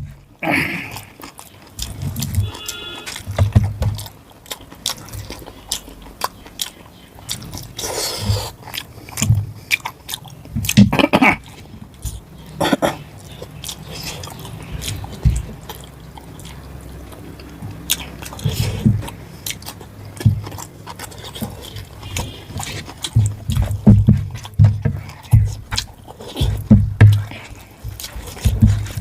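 Close-up chewing of rice and mutton curry: irregular wet chewing thuds, lip smacks and mouth clicks, with a few louder noisy bursts between them.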